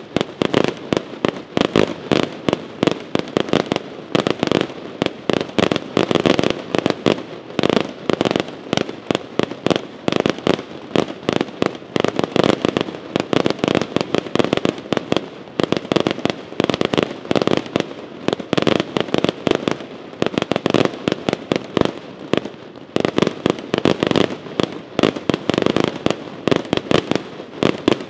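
Aerial firework shells launching and bursting in a dense, unbroken barrage, several sharp bangs a second.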